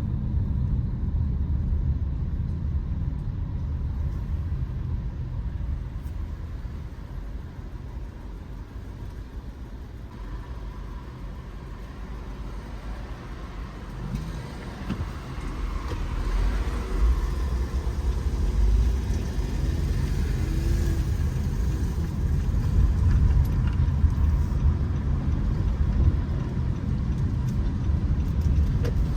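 Car road noise: a low, steady rumble of a car on the road, easing off about a third of the way in and building up again from about halfway.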